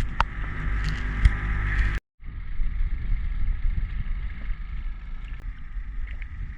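Small boat's outboard motor running steadily, over low wind and water noise. The sound breaks off abruptly for a moment about two seconds in, then carries on at a similar steady level.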